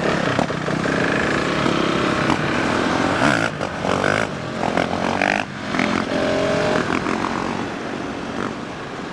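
Dirt bike engine running and revving, changing pitch as the throttle is worked, then easing off somewhat near the end.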